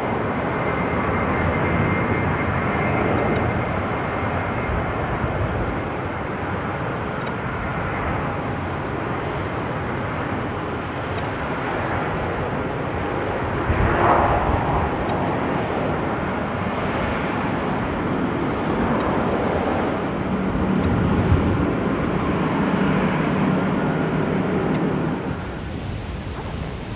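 Jet airliner engines: a loud, steady rush with faint whining tones that eases off near the end.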